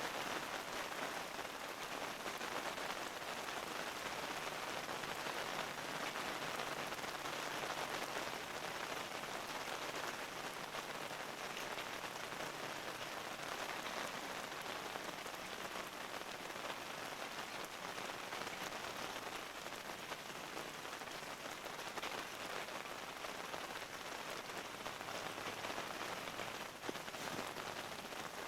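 Steady rain falling, an even hiss throughout, with one small tap near the end.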